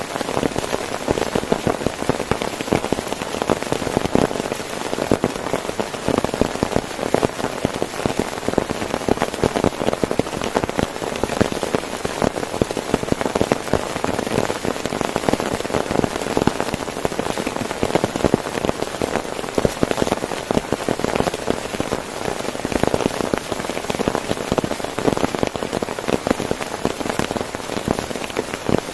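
Heavy rain falling on a tent: a dense, steady mass of drop strikes on the fabric.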